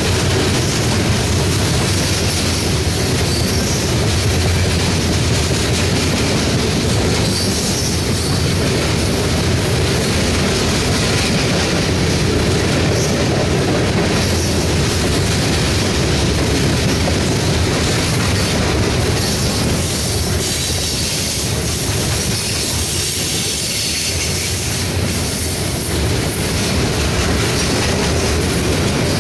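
Loaded covered hopper cars of a freight grain train rolling steadily past close by: the continuous rumble and clatter of steel wheels running over the rails.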